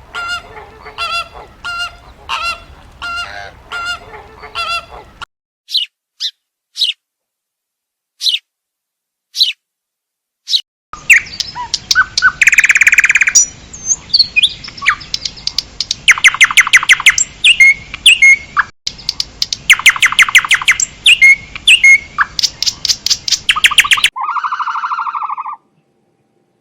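Bird calls from several recordings played one after another: a repeated call first, then sparse single chirps with silence between them, then loud dense chirping and squawking, and a short, lower-pitched call near the end.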